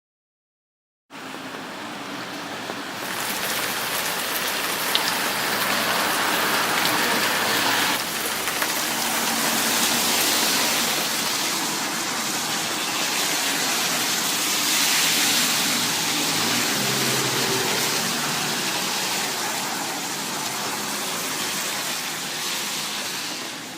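Heavy rain falling steadily, the downpour ahead of an approaching typhoon. It cuts in suddenly about a second in.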